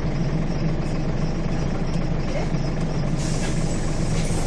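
Scania bus engine running with a steady low drone, and a brief hiss about three seconds in.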